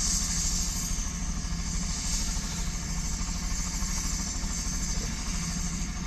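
Crop-dusting helicopter running, its rotor beating in a fast, even pulse over a steady engine hum and a high rushing hiss that swells and eases.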